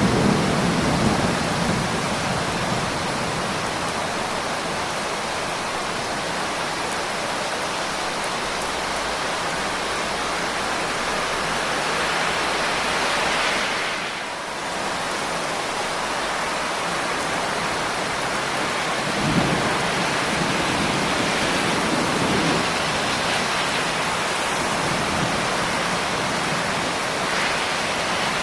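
Steady heavy rain, with low rolls of thunder near the start and again about two-thirds of the way through. The rain dips briefly in loudness about halfway through.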